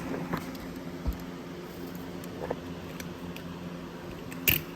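Scattered light clicks and knocks of metal transmission parts being handled, over a steady background hum, with a low thump about a second in and one sharp, loud clack near the end.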